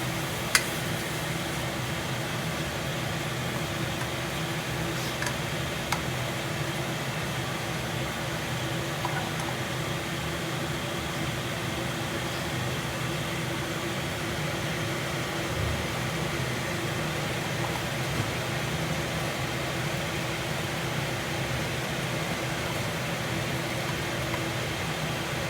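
Kitchen exhaust fan running with a steady, noisy drone and hum, with a few light clicks near the start and about six seconds in.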